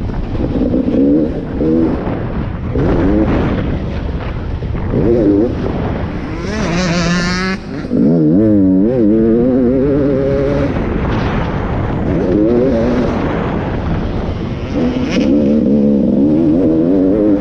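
Beta 300 RX two-stroke motocross bike running on the track, its engine revving up and down over and over through the throttle and gears. A sharper, higher-pitched rev comes about seven seconds in.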